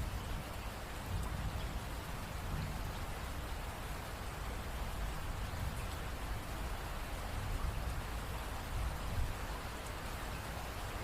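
Steady rain falling, an even, dense hiss with a low rumble underneath.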